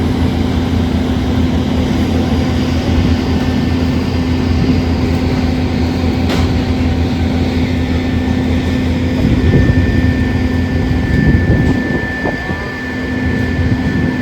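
Steady vehicle engine noise with a constant low rumble and an even droning hum, unchanging in level.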